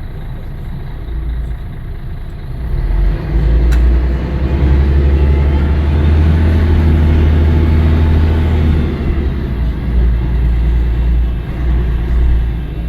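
Scania L113CRL bus's diesel engine running under load, a deep rumble that grows louder about three seconds in, holds steady, and then eases and wavers from about nine seconds in.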